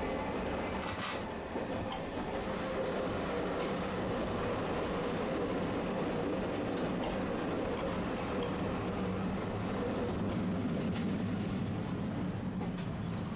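Tosaden streetcar running on its rails, heard from inside the car: a steady rumble of motor and wheels with a few clicks about a second in. A thin, high-pitched squeal from the wheels sets in near the end.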